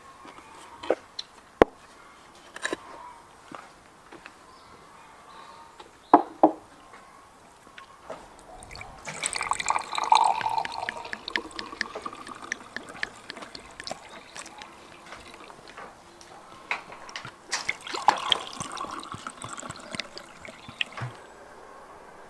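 Wine poured from a bottle into glasses, in two pours: one in the middle and one near the end. Before them come a few sharp knocks, as glasses and bottle are set down.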